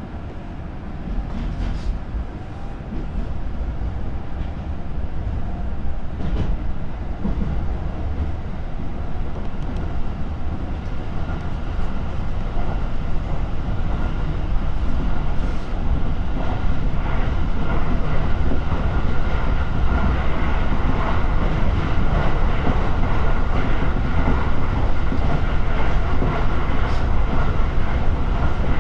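JR Joban Line electric commuter train pulling away from a station, heard from inside the car: a low rumble of wheels on rail that gets steadily louder as the train gathers speed, with a steady whine joining about halfway and a few faint clicks from the rails.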